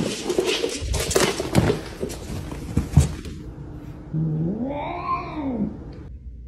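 A cat rummaging in crumpled packing paper in a cardboard box: loud rustling and crinkling with a few sharp knocks. Then, about four seconds in, a cat's long meow that rises and falls in pitch.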